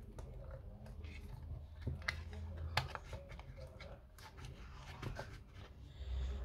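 Irregular small clicks, taps and scrapes of hand tools and plastic and metal parts being handled while taking apart an Apple Time Capsule, over a low steady hum.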